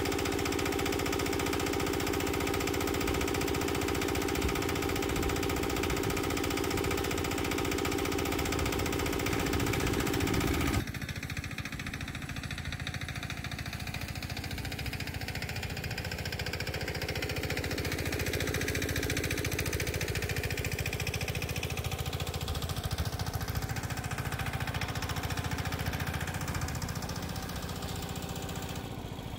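Petter AC1Z single-cylinder diesel engine running steadily. About eleven seconds in the sound changes abruptly and becomes quieter and less bright, then keeps running.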